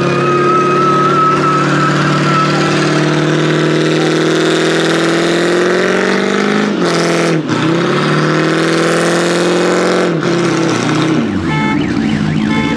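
Car engine accelerating hard, its pitch climbing steadily. It drops sharply at a gear change about seven seconds in, climbs again, then falls off near the end.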